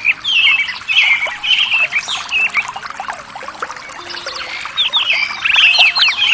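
A chorus of several birds calling at once: many short, overlapping chirps and squawks, some sweeping down in pitch, with a busier burst near the end.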